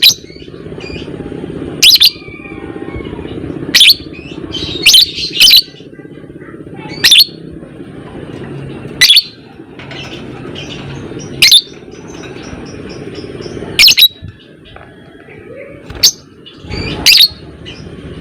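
Lovebird giving loud, shrill single calls about every two seconds, a few in quick pairs, over a steady low rumble in the background.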